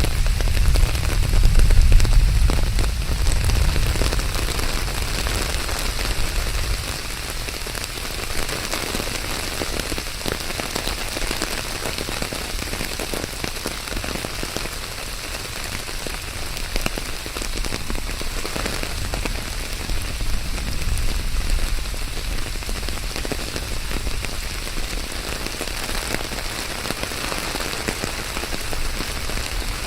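Steady rain falling on hard surfaces, a dense, even patter of drops. A deep low rumble sits under it in the first several seconds and fades away.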